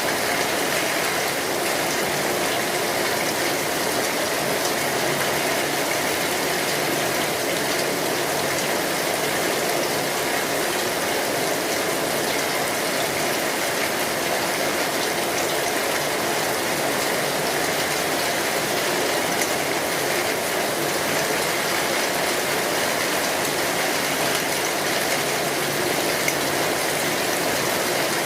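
Steady, heavy rain drumming on a metal roof, an unchanging dense patter.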